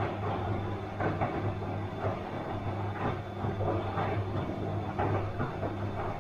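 Bosch washing machine running its wash cycle: a steady low motor hum with a swish of water and laundry about once a second as the drum turns.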